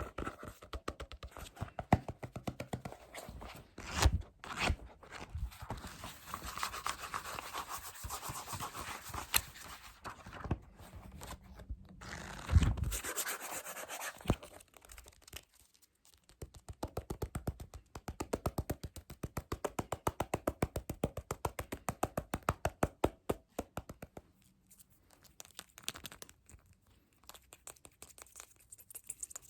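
Fast tapping and scratching on objects close to the microphone: rapid runs of clicks with stretches of scratchy rubbing, and one louder thump about halfway through.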